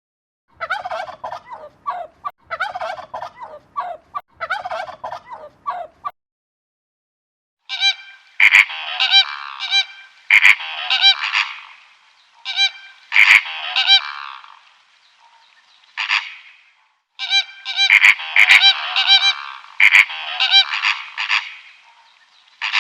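Repeated loud bird calls: a run of short calls for about six seconds, then after a brief break a longer series of loud calls in clusters of several calls each, with short pauses between the clusters.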